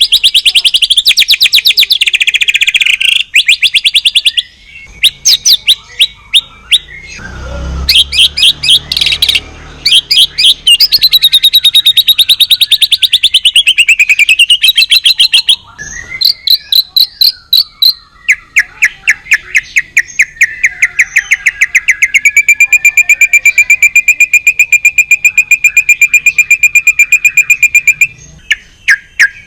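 White-rumped shama (Medan murai batu) singing loudly in long, fast runs of rapidly repeated whistled notes and trills, some sweeping up and down in pitch, with a few brief breaks. In the second half it delivers a long, even run of rapid notes.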